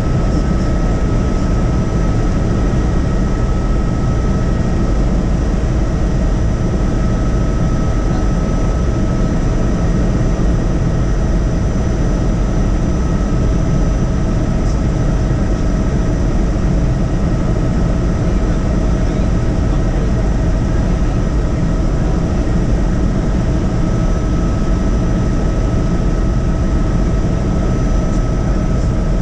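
Helicopter in flight heard from inside the cabin: a steady, deep rotor and engine rumble with a steady high whine on top.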